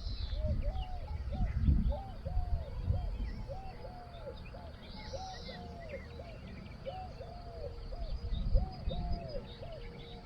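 A bird gives soft hooting calls, short notes in groups of two or three, repeated every second or two. Other small birds chirp faintly behind it, with low thuds of footsteps on the ground.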